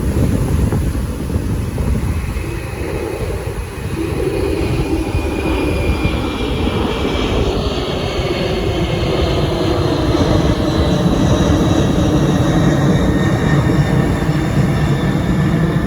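Jet airliner flying low overhead: a deep rumble that grows louder a few seconds in, with thin whines sliding slowly down in pitch as it passes.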